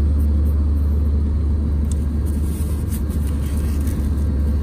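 Steady low drone of an airliner cabin in flight, with a few faint crackles about two seconds in.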